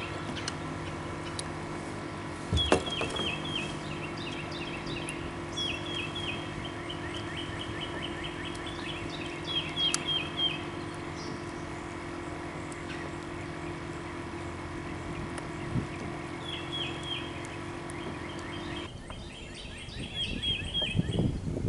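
A bird singing short runs of quick, falling chirps, several times over, above a steady low hum that stops about nineteen seconds in.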